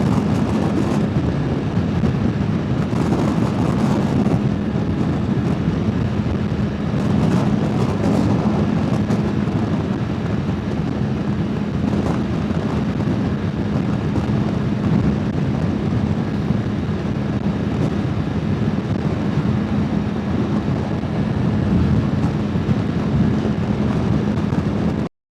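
Motorbike engine hum and wind rush while riding at speed, picked up by a helmet-mounted wireless clip mic with noise cancellation set low. The engine drone stays steady under the wind noise with small swells, then cuts off suddenly near the end.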